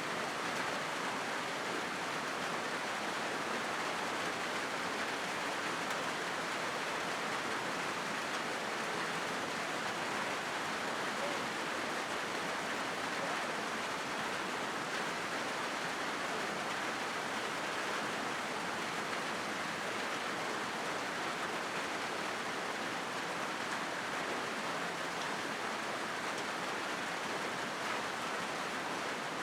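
Steady rain falling on a corrugated metal (zinc) roof: an even, unbroken hiss with no single drops or knocks standing out.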